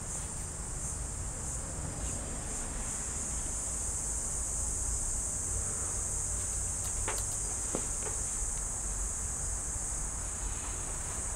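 Insects, such as crickets, trilling in a steady high-pitched shrill, with a few faint clicks about seven to eight seconds in.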